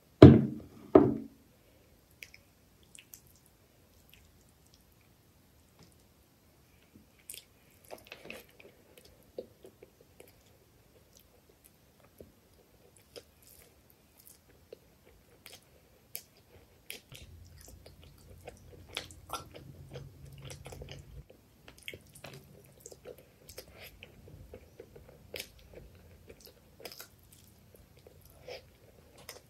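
Two loud knocks at the very start, then close-miked eating sounds: chewing chicken liver curry and rice, with many small wet clicks and smacks of the mouth.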